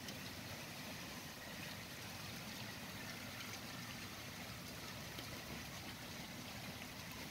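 Rain falling steadily on a wet street, an even hiss that has eased off a little.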